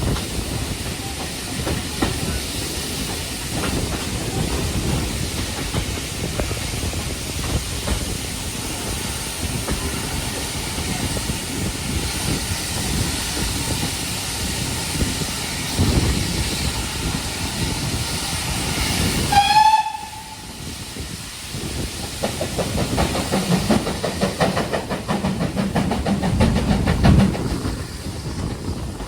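Steam train with a steady hiss and rumble; about two-thirds of the way through, a short, sharp steam whistle blast. After that comes a rapid, even clatter with a low rumble.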